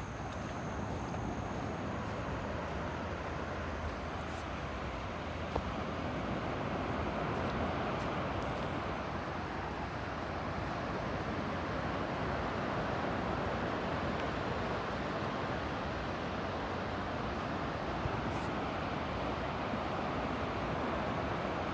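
Ocean surf washing in a steady roar that slowly swells and eases, mixed with wind on the microphone.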